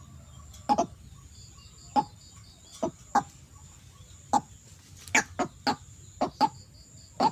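White-breasted waterhen (ruak-ruak) giving short, sharp clucking calls, about a dozen notes at uneven spacing, some in quick pairs. A steady high insect whine and a brief series of faint high pips sound underneath.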